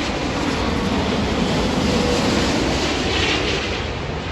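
Jet airliner engines low on approach, a steady loud rushing noise with a buzzing edge about three seconds in.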